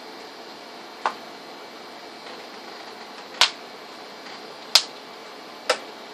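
Four sharp clicks, about a second in, near the middle, a little later and near the end, over a steady low hiss.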